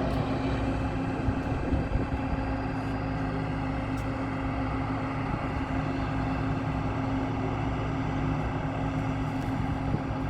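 Airbus A320-214 airliner running steadily on the apron: an even jet drone with a few steady low hums over a rushing noise, holding level throughout.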